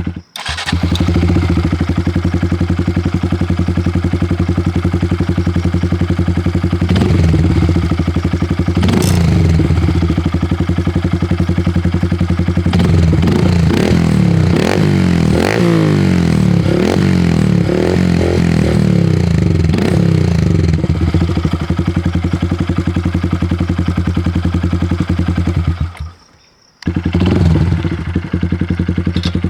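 2023 Honda Grom's single-cylinder engine running through a ZOOM high-mount exhaust with the baffle taken out. It idles loud and steady, then gets a run of quick throttle blips about halfway through, each rev rising and falling, and settles back to idle. The sound breaks off briefly near the end.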